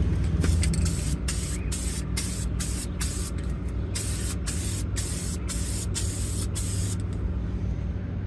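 Spray paint hissing out in about a dozen short bursts with brief pauses between them, stopping about seven seconds in, as green paint is sprayed onto a steel M1 helmet.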